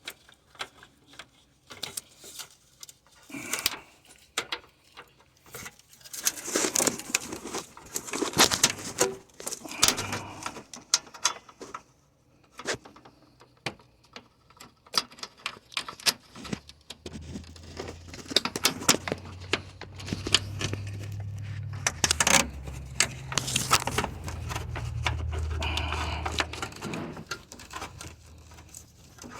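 Metal clicks, clinks and scrapes of hand work with a cable-operated hose clamp tool on a radiator hose's spring clamp, which is hard to seat. A low hum comes in about halfway through and stops near the end.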